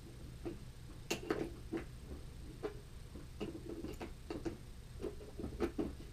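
Irregular clicks and light knocks of a skateboard being taken apart by hand, tool and hardware tapping and clicking against the trucks and deck, about a dozen in a few seconds.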